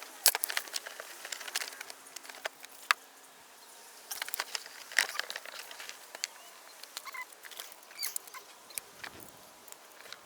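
Scattered light clicks, taps and rattles of hands working with battery cable and metal hardware, coming in irregular clusters.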